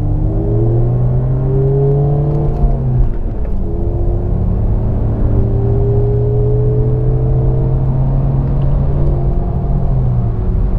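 Car engine at full throttle, heard from inside the cabin. Its pitch climbs, drops at a gear change about three seconds in, then climbs again more slowly through the next gear.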